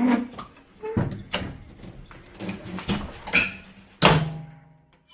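A school bus door being worked: a series of mechanical clunks and rattles, then a loud bang about four seconds in that rings briefly as it dies away.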